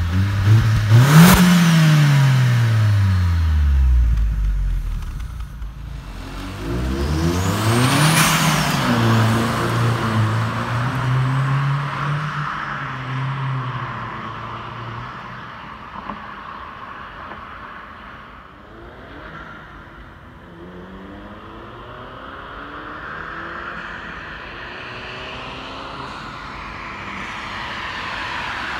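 Opel Astra G Caravan OPC's 2.0-litre four-cylinder engine and exhaust: a sharp rev that rises and falls back within about three seconds. Then the car accelerates away, its note climbing and holding steady before fading into the distance, and grows louder again near the end as it approaches.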